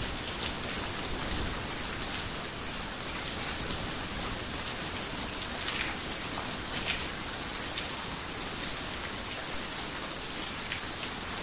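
Heavy rain falling steadily, with scattered sharper drops hitting close by now and then.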